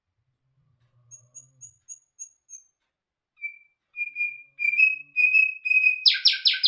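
A songbird, the bulbul hazar dastan, singing a phrase. It opens with six thin high notes, then a series of clear repeated whistles that grow louder, and ends with a few loud harsh rattling notes.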